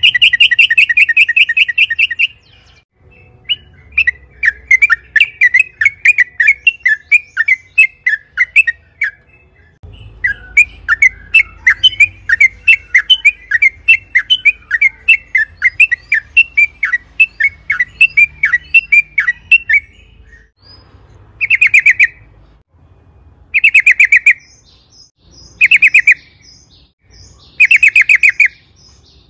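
Yellow-vented bulbul (trucukan) singing: long runs of quick, bubbling chirps over the first twenty seconds, then short rattling bursts of about a second each, repeated every two seconds or so.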